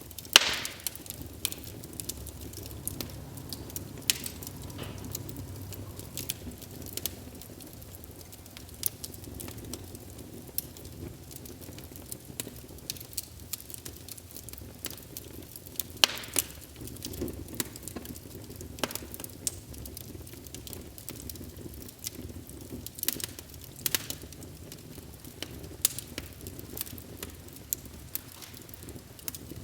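Wood fire burning in a fireplace, with a steady low rumble of flames and irregular sharp crackles and pops. The loudest pop comes about half a second in.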